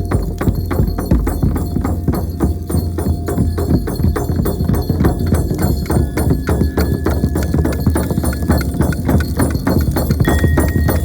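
Shaman's frame drum beaten in a fast, steady run of several strikes a second, with faint ringing tones held over it.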